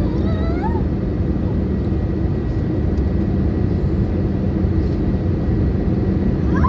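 Steady cabin roar of an Airbus A320neo in flight, made by the engines and the airflow over the fuselage, heard from a window seat. Near the start a brief high, gliding voice sounds over it.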